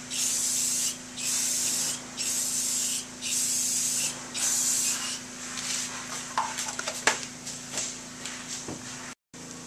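Spray paint hissing out in five short bursts, about one a second, as a birdhouse is painted. After that come scattered light clicks and knocks, with the sharpest about seven seconds in.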